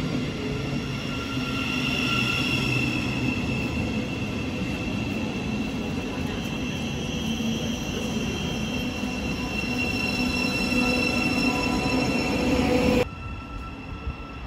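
Thameslink Class 700 electric multiple unit running past the platform: a steady rumble of wheels on rails with several steady high-pitched whining tones over it. The sound drops off abruptly about 13 seconds in to a quieter station background.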